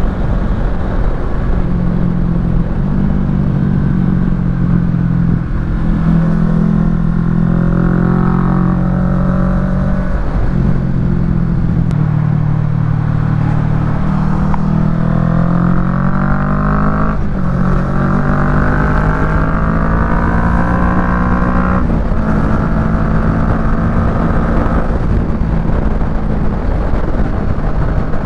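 Kawasaki Ninja 650's parallel-twin engine through a Yoshimura full exhaust, running under way. It holds a steady note at first, then rises in pitch through two pulls in the middle, each ending in a sudden drop in pitch as a gear is shifted, and settles back to a steady cruise.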